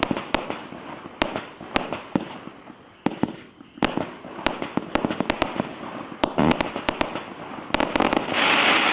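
Grand Finale firework barrages going off: an irregular run of sharp bangs as shells burst, several a second, with a short lull about three seconds in. Near the end the bangs merge into a dense, continuous burst.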